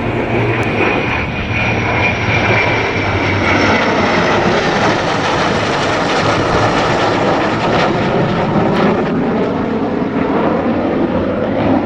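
Military jet flying past, loud engine noise throughout with a high whine that slowly falls in pitch as it goes by.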